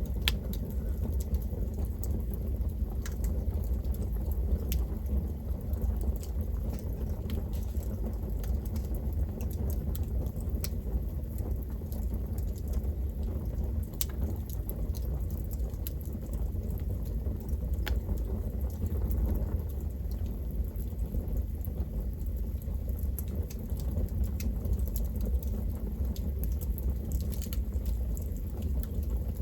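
Campfire burning: wood crackling and popping at irregular intervals over a steady low rumble of the flames.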